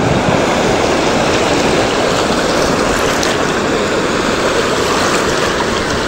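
Sea surf washing steadily onto the shore, a continuous rush of breaking waves.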